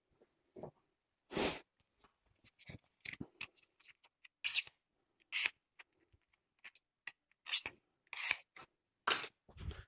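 A dozen or so short, irregular scraping or snipping strokes on bumper plastic, each a fraction of a second, with pauses between.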